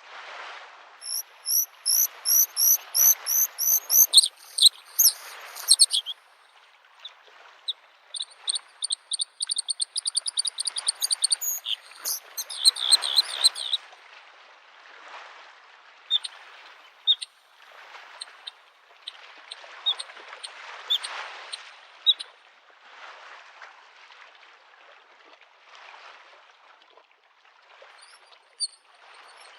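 A bluethroat singing: two long runs of fast repeated high notes in the first half, then scattered single notes. Beneath it, small waves lap the lake shore in a soft, swelling wash every second or two.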